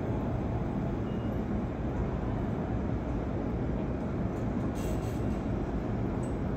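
A train running through a station with a steady low rumble, with a brief high hiss about five seconds in.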